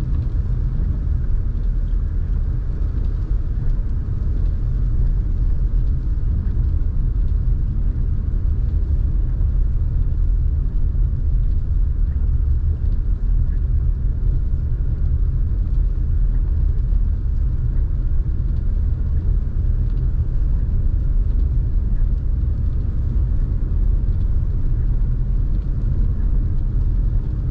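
Car driving at steady speed, heard from inside the cabin: a constant low rumble of engine and road noise.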